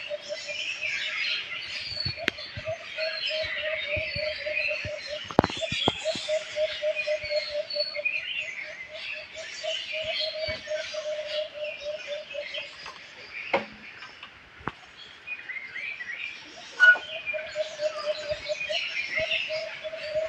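A chorus of small birds chirping and twittering over one another. A low, rapidly repeated note runs underneath and breaks off for a few seconds in the middle. A few sharp clicks sound, the loudest near the end.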